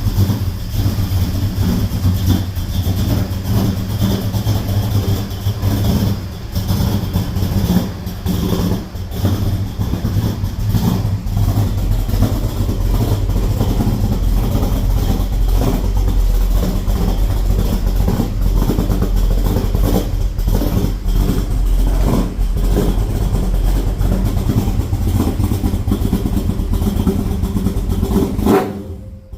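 454 big-block Chevy V8 exhaust through an X-pipe and Borla ProXS mufflers, running loud and steady with some brief changes in engine speed in the first half; the sound drops off sharply just before the end.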